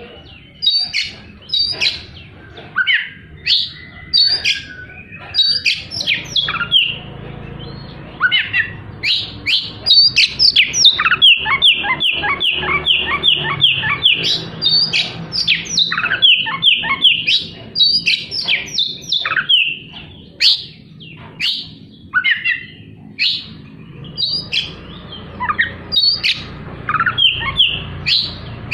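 Oriental magpie-robin (kacer) singing loudly in quick, sharp, harsh notes and whistles, with a fast repeated trill in the middle.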